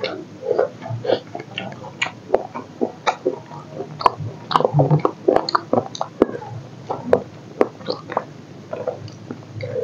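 Close-up mouth sounds of a person eating rice and chicken curry by hand: wet chewing with many irregular lip smacks and sharp clicks, thickest in the middle.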